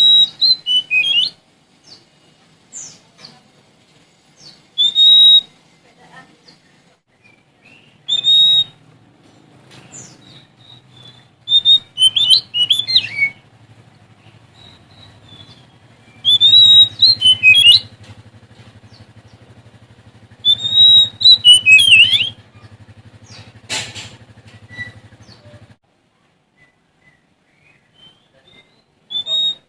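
Oriental magpie-robin (kacer) singing loud, separate phrases a few seconds apart. Each phrase is a second or two of clear whistles and fast warbling notes that glide up and down.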